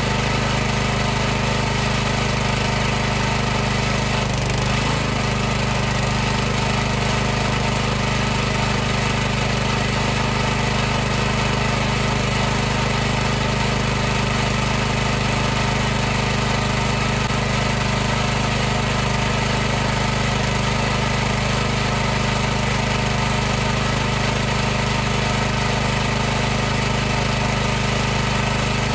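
High-pressure washer pump running steadily: a constant motor-and-pump drone with a hum of low tones under a hiss.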